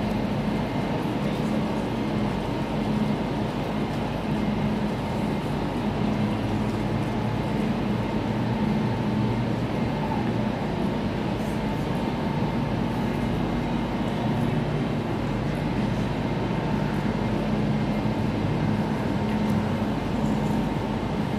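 Railway station ambience: a steady hum with a few constant tones from an electric train standing at the platform, over a general din of the station.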